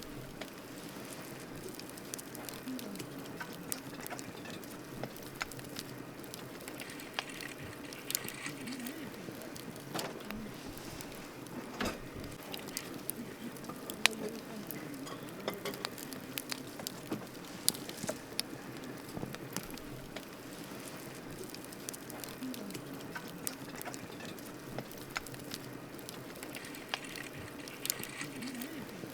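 Wood campfire burning, crackling with irregular sharp pops over a steady hiss of flame, one pop louder than the rest about halfway through.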